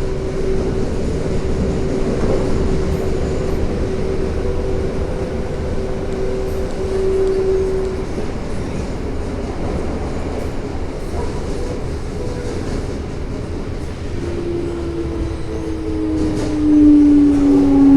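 Toei Asakusa Line 5300 series subway train running, heard from inside the car: a steady rumble of wheels on rail with a steady motor tone that stops about 8 seconds in. Near the end, falling motor tones grow louder as the train slows.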